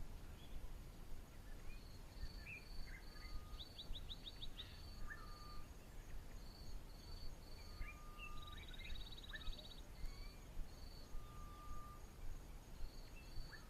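Faint outdoor natural ambience: several birds chirping and calling, with short whistled notes and quick falling trills, over a steady run of short, evenly spaced high pulses.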